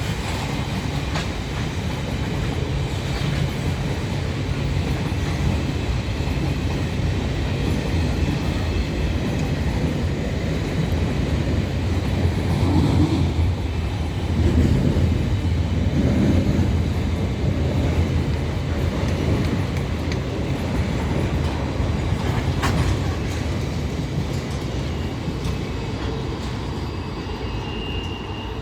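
Freight train rolling past at close range: a steady low rumble with the clickety-clack of wheels over the rail joints, swelling for a few seconds about halfway, and a thin high wheel squeal near the end.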